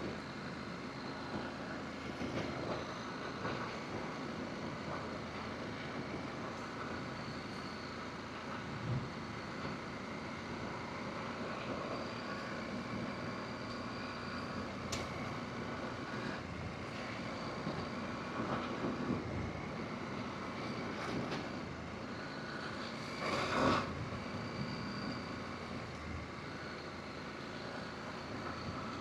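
Adventure motorcycle riding along a forest road, its engine running steadily under road noise, with a few light clicks and one louder knock about three-quarters of the way through.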